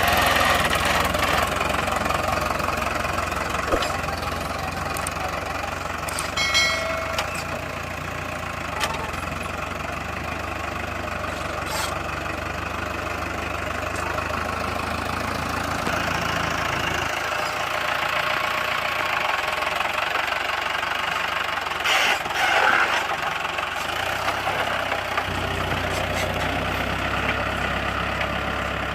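Mahindra Arjun 605 DI tractor's diesel engine running steadily while pulling a two-bottom mould-board plough. Its deep note weakens for several seconds past the middle, then comes back. A brief high-pitched squeal sounds about six seconds in.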